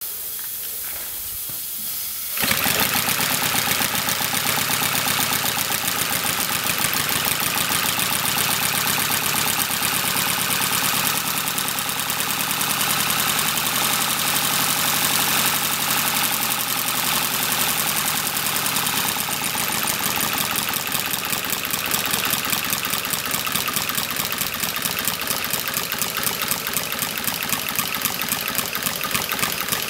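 Bolsover steam radial engine, a 1940s unit built to convert petrol cars to steam, running without load. A steady steam hiss for about two seconds, then the engine gets going and runs on steadily with rapid beats.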